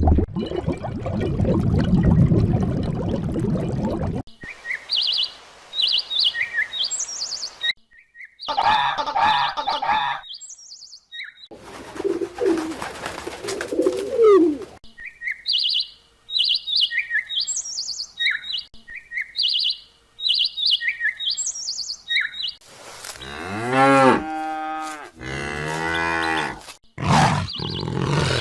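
A run of separate animal-sound clips with abrupt cuts between them: cattle mooing, with deep calls that swoop up and down near the end, alternating with stretches of small birds chirping in quick, repeated high notes.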